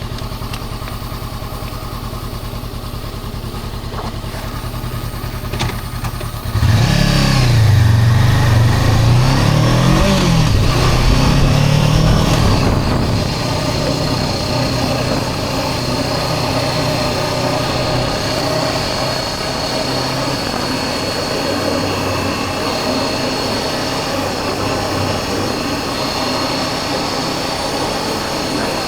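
Honda CB400X parallel-twin engine idling steadily, then about six and a half seconds in pulling away, its revs rising through the gears, then running at a steady speed with road and wind noise.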